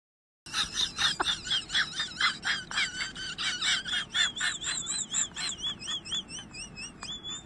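Bird chirping: a quick run of high repeated chirps, about three to four a second, that turn into wavering, warbled notes in the second half.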